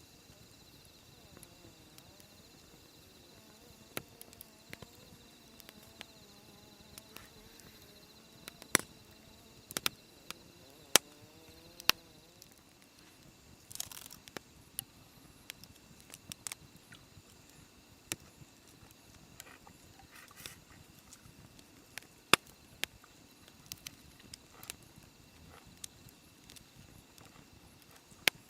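Crickets chirring steadily, with scattered sharp pops and snaps at irregular intervals.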